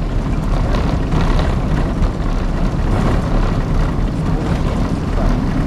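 Boeing 777-200 landing: a loud, steady roar of jet engines and rushing air over a heavy low rumble.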